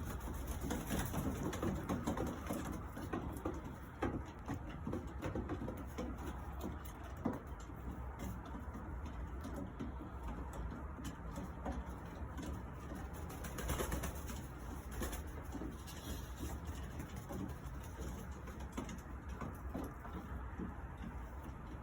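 A loft full of young racing pigeons cooing, with scattered clicks and rustles from the birds moving about.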